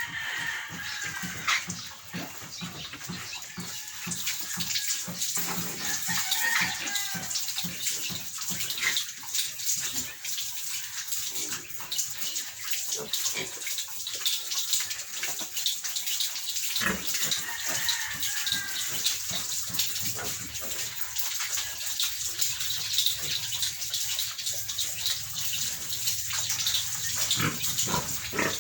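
Piglets in a pen giving a few short high squeals over a steady crackling, rustling noise.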